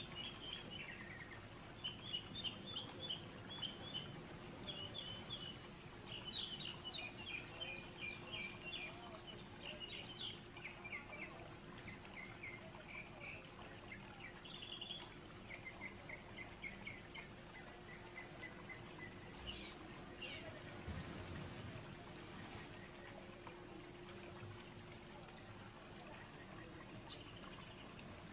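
Small birds chirping and singing in quick trills, most busily in the first half, over a faint steady background hiss and a low hum.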